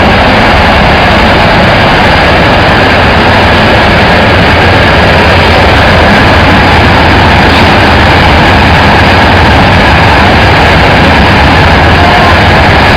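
Rice husk carbonization furnace machinery running: a loud, steady machine noise with a low hum underneath, unchanging throughout.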